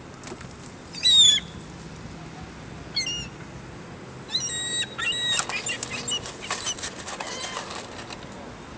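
Gulls calling with high, gliding cries: a loud one about a second in, another near three seconds, then a run of calls from about four to six seconds. A quick series of short sharp sounds runs alongside the later calls.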